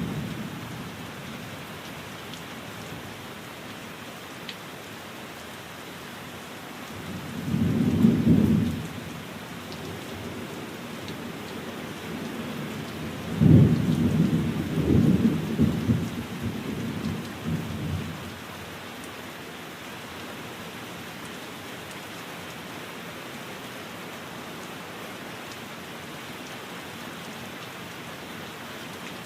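Steady rain with two rumbles of thunder. The first swells and fades about a quarter of the way in; the second starts with a sharper clap near the middle and rolls on for several seconds.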